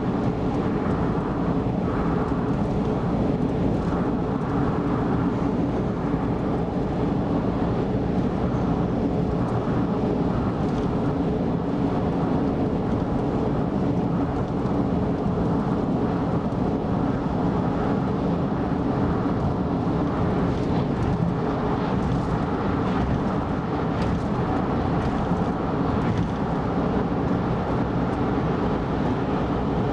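Steady road and engine noise of a car driving at expressway speed: a constant low rumble of tyres and engine with no change in level.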